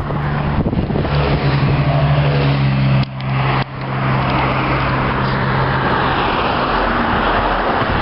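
Loud race-circuit noise: a steady engine drone under a broad roar, broken by a short drop about three seconds in.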